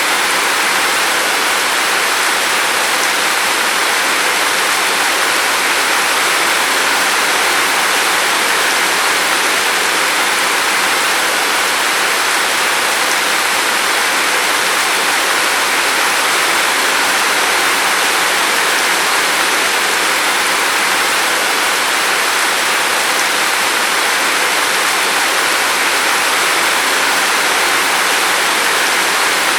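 Steady rain falling, an even rushing hiss with no individual drops standing out.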